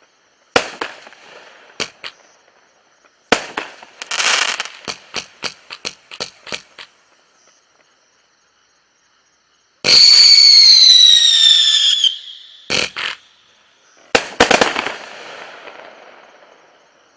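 A 42-shot consumer firework cake firing: groups of sharp bangs, each trailing off in crackle. About ten seconds in comes a loud whistle, falling in pitch and lasting about two seconds. A last cluster of bangs follows, with crackling that slowly fades.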